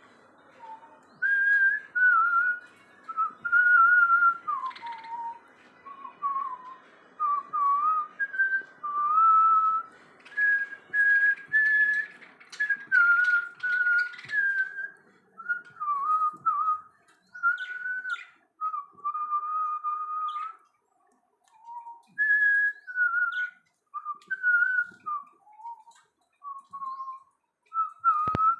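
Whistling: a long run of clear single notes that step up and down in pitch, with short pauses between phrases, and brief bird chirps mixed in around the middle.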